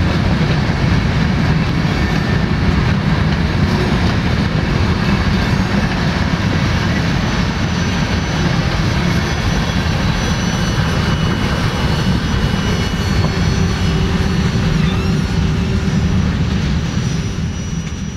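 Freight train cars rolling past at speed: a loud, steady rumble of steel wheels on rail with faint high-pitched ringing tones, fading out near the end.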